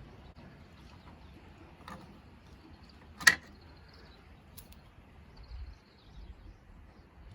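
A single sharp knock about three seconds in, with a fainter tap a second before it and small ticks after, over a quiet background; no saw is running.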